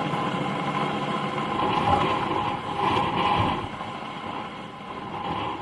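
Helicopter running: a steady whine over a continuous rushing engine and rotor noise, getting somewhat quieter near the end.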